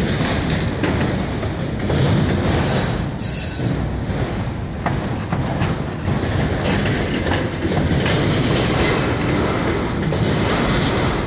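Freight train boxcars rolling past close by: a steady rumble of steel wheels on rail, with irregular clacks and clanks as the wheels cross rail joints.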